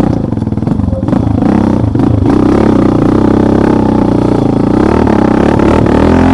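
Motorcycle engine running hard under throttle close by, its pitch rising and falling as the rider works the throttle over rough forest ground.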